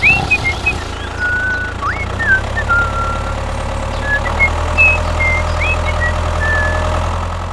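Tractor engine running steadily, with short high chirping whistles over it.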